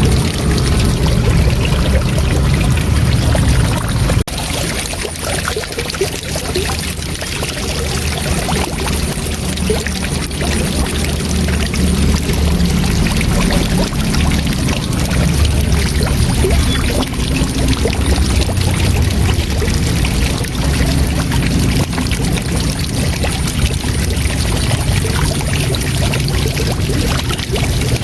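Waterfall, water rushing and splashing steadily, with a heavy low rumble. The level dips slightly about four seconds in, then carries on.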